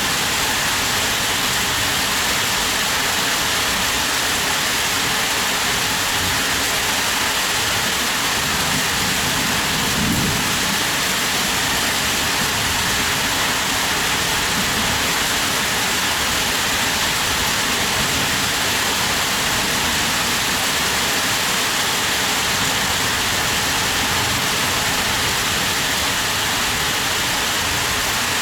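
Heavy rain falling steadily, a dense even hiss with no break. About ten seconds in there is a brief low rumble.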